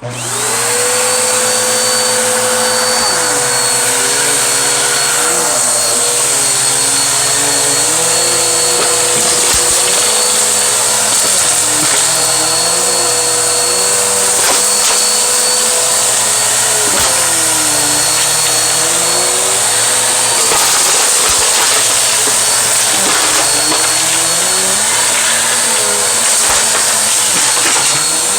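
Vacuum cleaner switched on, its motor spinning up within a second to a steady whine, then running as it sucks up scattered beans, pennies, glitter, rice and dirt. Lower notes in the motor sound waver on and off as it works.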